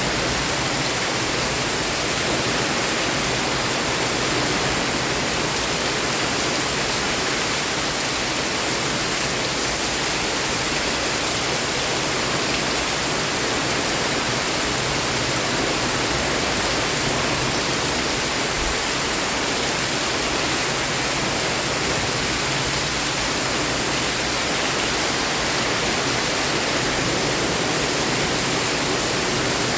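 Heavy rain falling steadily: an even, unbroken hiss with no separate drops or gusts standing out.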